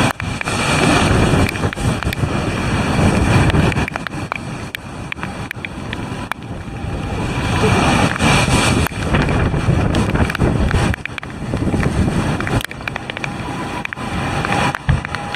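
Typhoon waves surging and crashing against a flare-type seawall, with strong wind buffeting the microphone. The noise swells and falls in surges a few seconds apart.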